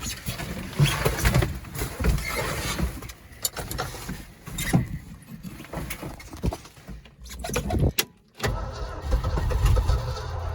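Old Ford F-250 Highboy engine being cranked on its starter from cold after the carburettor was primed, turning over unevenly and trying to fire without catching. The cranking stops briefly about 8 seconds in, then resumes.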